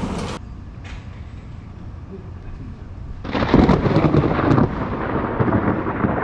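Thunder: a low rumble, then about three seconds in a sudden loud crack of close thunder that rolls on in crackling rumbles.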